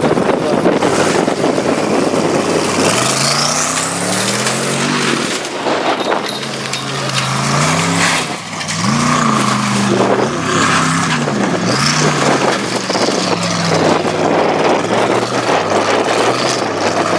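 Custom-built twin-turbo Ford engine of a 1600 hp off-road racing truck revving hard. Its note rises and falls again and again from about three seconds in, over a steady rush of tyre and dirt noise.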